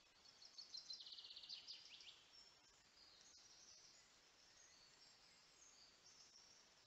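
Faint songbird song: a phrase of high notes that runs into a rapid trill, about two seconds long, followed by quieter high calls.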